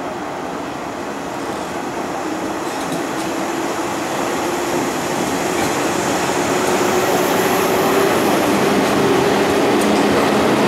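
Series 485 electric train (the 'Yū' tatami-car set) rolling slowly past, getting steadily louder as the cars come by. A low hum runs under the rolling noise, with a few clicks of wheels over rail joints.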